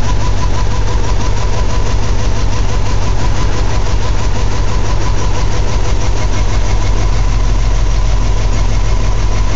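WRX-swapped Subaru Impreza GC8's flat-four engine idling rough and steady just after starting, with an uneven pulse from a misfire.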